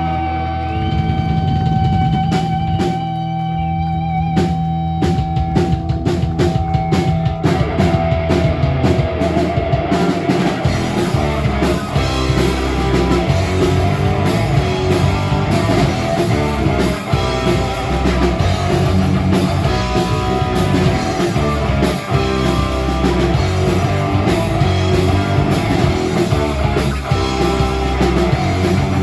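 Live rock band playing instrumentally with electric guitar, bass and drums. A long held guitar note carries the first several seconds, then the playing thickens into dense full-band rock about seven seconds in.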